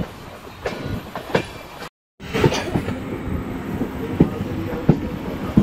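A moving train: a steady rumble with a clatter of knocks from the wheels running over the track. The sound breaks off completely for a moment about two seconds in.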